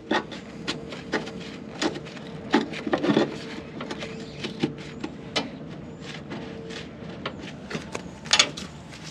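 Irregular metal clanks and knocks from working on a combine's feeder house to raise its front drum for corn, with a faint steady hum that stops about two-thirds of the way through.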